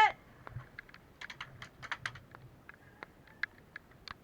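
A shouted "Hit!", then a run of short, sharp, irregular clicks and cracks: airsoft guns firing during a skirmish.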